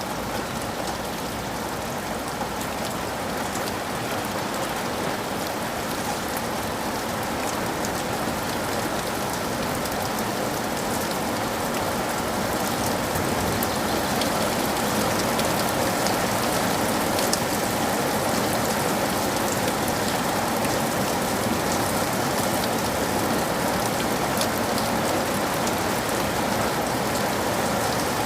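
Steady rain falling, with the patter of drops on surfaces, growing slightly louder over the first half.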